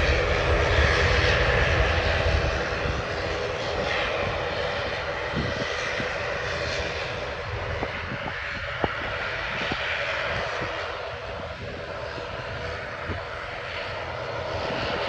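Airliner engines at takeoff power, a steady roar that is loudest at first and slowly fades as the aircraft moves away.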